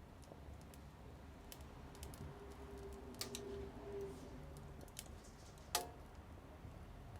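Small wood fire in a mini wood stove crackling quietly, with scattered sharp pops; the loudest pop comes a little under six seconds in.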